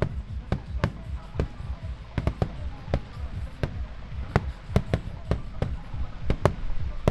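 Fireworks shells bursting in rapid succession in a starmine, sharp bangs two to four a second over a steady low rumble of echoing reports, with music faintly underneath.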